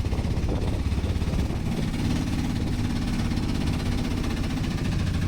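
An engine running with a steady, pulsing low rumble; a steadier hum joins it about two seconds in.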